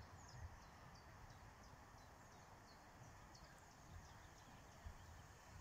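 Faint songbird chirping: a run of short, high, downward-sliding chirps a few times a second, stopping about two-thirds of the way through, over a faint low rumble.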